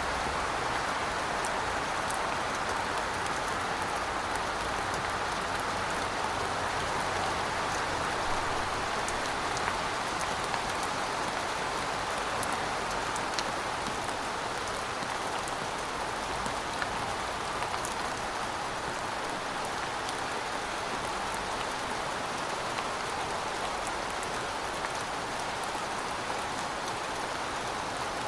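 Heavy rain falling in a steady hiss, with scattered sharp drop ticks.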